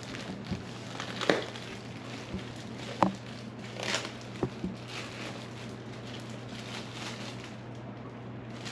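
Lettuce being cut and handled: a handful of light knocks and crisp crackling rustles of the leaves in the first five seconds, over a steady low hum.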